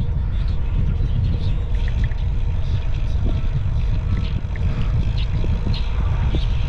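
Wind buffeting the microphone of a camera riding along on a moving bicycle: a steady, loud low rumble, with a few faint short high ticks above it.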